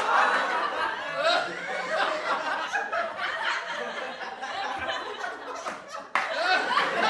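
A group of people laughing and chuckling together, many voices overlapping. The sound dips near the end and then starts up again suddenly.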